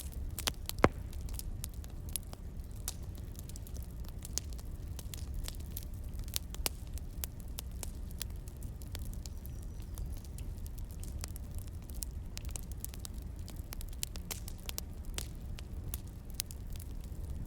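Crackling wood fire: a steady low rumble with sharp pops and snaps at irregular intervals, one loud pop about a second in.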